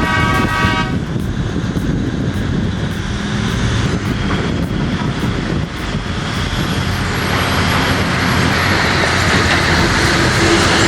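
A horn blast that stops about a second in, then a Komatsu electric rope shovel running with a steady, heavy machine noise that grows a little louder toward the end.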